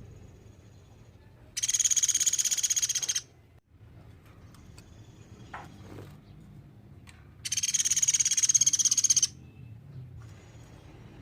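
Platuk beras, a small woodpecker, giving two loud, rapid, high trills about a second and a half long each, one early and one past the middle, with fainter trills between them.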